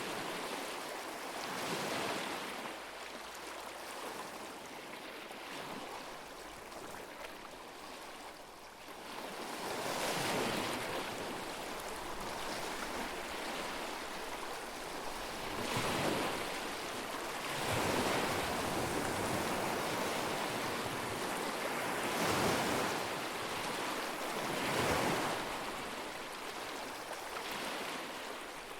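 Small lake waves washing up on the shore of Lake Shikotsu, coming in irregular surges every few seconds.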